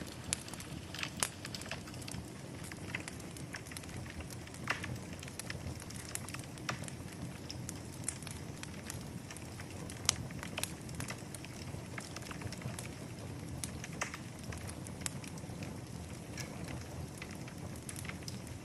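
Wood fire burning in a fireplace: a steady low rumble and hiss of the flames with irregular crackles and pops throughout.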